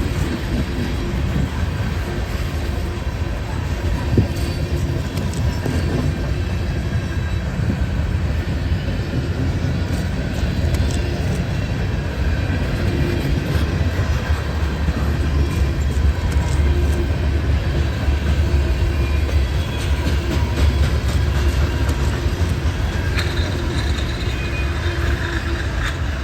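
CSX freight train's cars rolling past: a steady rumble of steel wheels on rail, with a few faint clicks.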